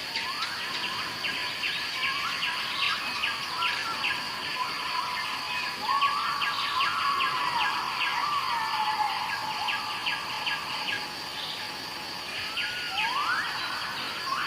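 Jungle ambience: insects buzz and tick steadily at a high pitch, while birds call with whistled notes that slide up and down in pitch.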